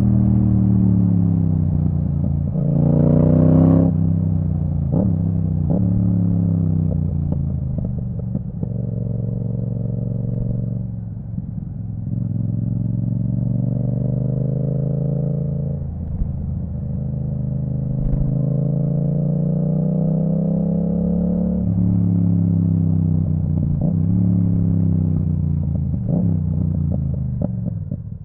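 2022 Yamaha MT-07's parallel-twin engine through an Akrapovic titanium full exhaust with the dB killer removed, ridden under way. The revs climb sharply once about three seconds in, then rise and fall slowly several times as the bike pulls and eases off. It is quieter at the very end.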